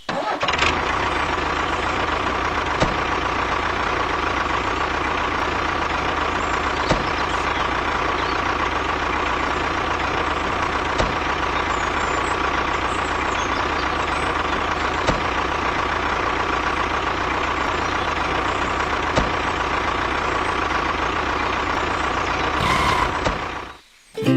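Engine running steadily, with a strong low rumble and a steady whine on top, and a few faint ticks; it cuts off suddenly about a second before the end.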